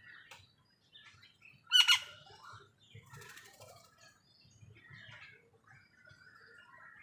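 Smaller birds chirping faintly throughout, with one loud, harsh crow caw about two seconds in, then a short raspy flutter a second later.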